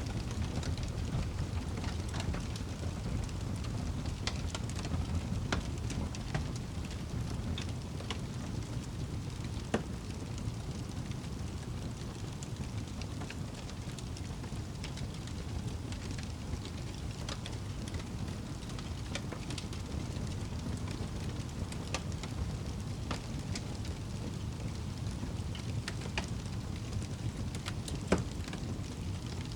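Wood fire crackling in a fireplace: a steady low rumble of burning with scattered small crackles and two louder pops, one about ten seconds in and one near the end.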